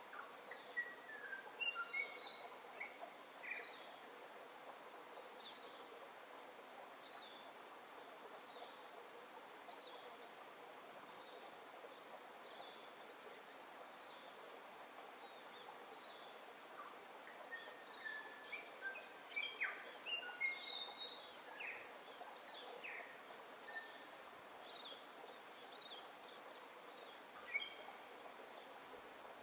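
Birds singing over a steady hiss. One repeats a short high chirp about every second and a half, while others give groups of whistled, mostly falling notes near the start and again past the middle.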